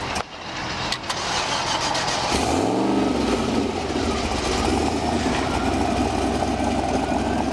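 Car engine with a newly muffled exhaust starting up, blipped once about two and a half seconds in, then idling steadily. It is really quiet for a race car.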